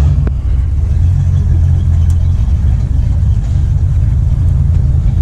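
A car engine idling nearby: a steady, loud low rumble.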